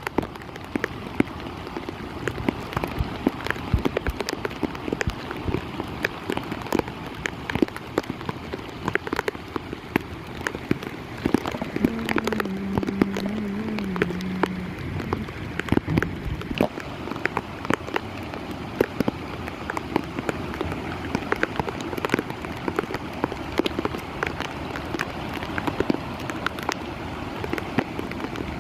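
Heavy rain falling steadily, a dense hiss with many sharp individual drop ticks. About halfway through, a low wavering tone is heard for around three seconds.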